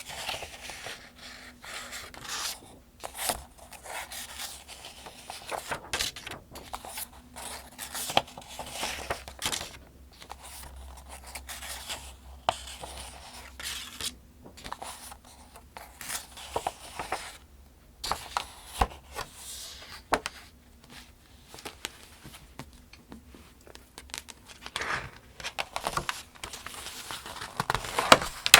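Pages of a paperback almanac being turned one after another at a steady pace, each turn a soft paper swish and crinkle.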